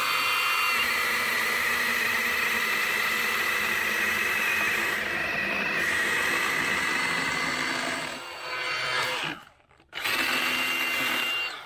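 Milwaukee M18 Hatchet battery mini chainsaw running at full speed as it cuts through a large limb. It sags and stops briefly, then runs again near the end. It cuts through easily, "like butter."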